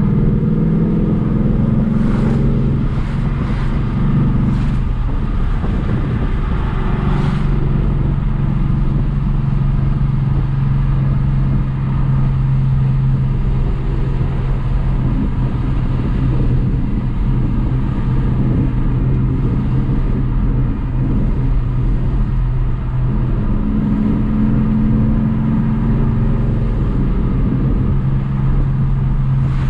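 Ford Mustang GT's V8 engine and exhaust running steadily under way, a low drone that shifts in pitch a few times as the throttle and gears change.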